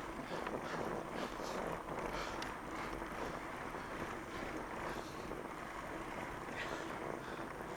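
Fat bike rolling along a trail: a steady rushing noise of its wide tyres and drivetrain, with wind on the microphone.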